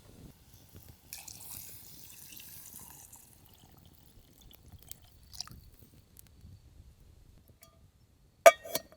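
Small objects handled at close range: a soft hiss for about two seconds, a few light clicks, then two sharp clinks with a short ring near the end.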